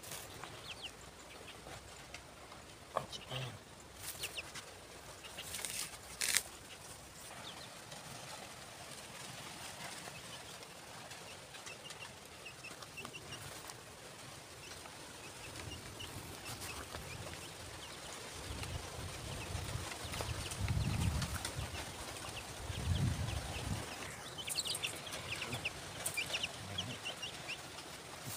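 Small birds in a wire cage trap cheeping, with scattered high chirps and a busy run of quick chirps near the end. Underneath are a few sharp knocks early on and the low scraping of hands working dry sandy soil.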